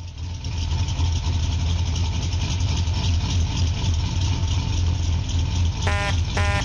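Car engine idling with a steady low rumble, and two short honks of a car horn near the end.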